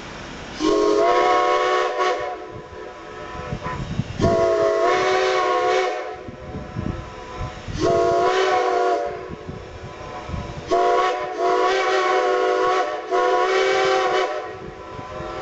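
Steam locomotive chime whistle of Strasburg 2-10-0 No. 90 sounding four blasts, each swooping up into a chord, the third a little shorter and the last the longest: the long-long-short-long grade-crossing signal.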